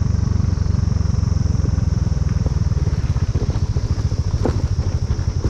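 Motorcycle engine running at low revs, its firing pulses growing slower and more uneven through the second half. A steady high-pitched insect buzz carries on behind it.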